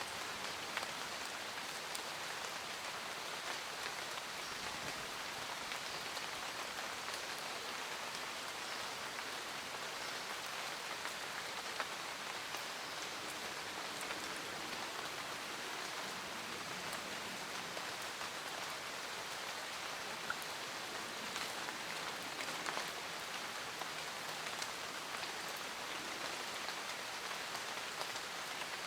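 Steady rain falling, with the patter of individual drops striking a surface.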